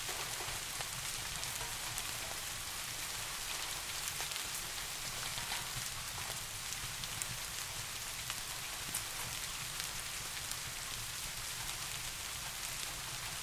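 Steady soft rain: an even hiss with scattered faint ticks.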